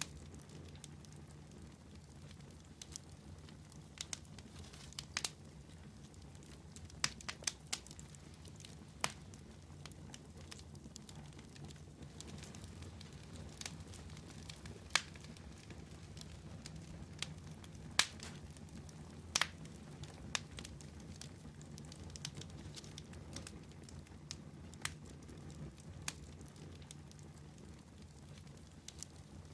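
Wood campfire burning, with sharp crackles and pops at irregular moments, several every few seconds, over a low steady rush.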